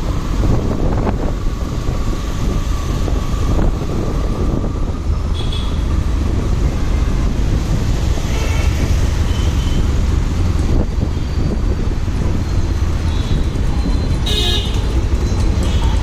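Riding a motorbike in city traffic: steady rumble of the engine and road. Other vehicles' horns toot briefly several times, about five, eight and fourteen seconds in.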